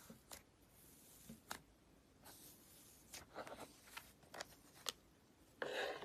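Slime being handled by hand: scattered faint, sharp clicks and pops, a quick cluster of them about three seconds in, and a louder squelch lasting about half a second near the end.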